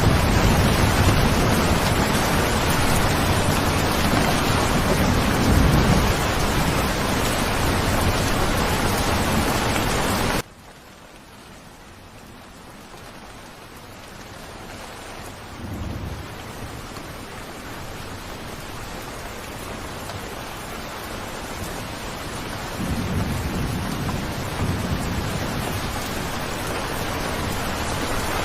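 Steady heavy rain with low rolling thunder. About ten seconds in it cuts abruptly to much quieter rain, which slowly builds again, with thunder rumbling once a few seconds later and again near the end.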